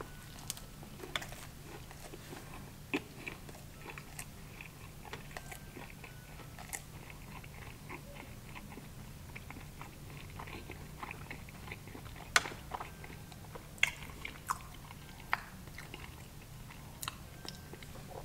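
A person biting into a fried, breaded flounder fish sandwich on a bun and chewing it close to the microphone, with scattered sharp mouth clicks. A low steady hum runs underneath.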